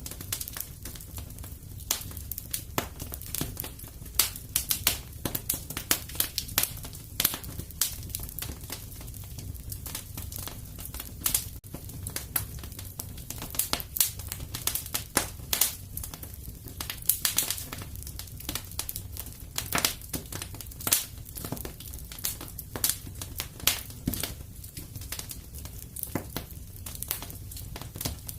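Wood fire burning in a fireplace: a low steady rumble of flames under constant irregular crackles and pops.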